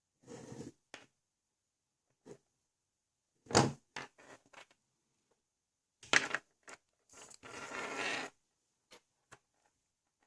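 Hands working on a small plastic LEGO XL motor: scattered clicks and knocks of plastic parts and tools, the sharpest about three and a half seconds in, with short scraping and rubbing sounds between them.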